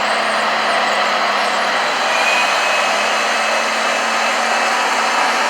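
Radio-controlled model construction machines running on their electric drive motors and gearboxes: a steady whir, with a faint high whine for a moment midway.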